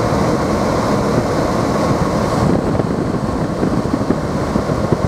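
Steady road and engine noise of a car driving along a street, heard from inside the cabin.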